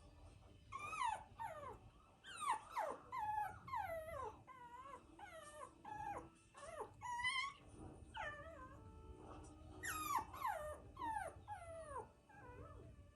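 Havapoo puppy whining: a quick string of high-pitched whines, most sliding down in pitch, with a short pause about two-thirds through.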